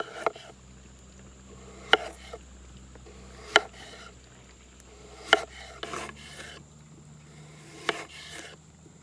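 Sharp knocks on wood about every one and a half to two and a half seconds, each followed by a short rasping scrape.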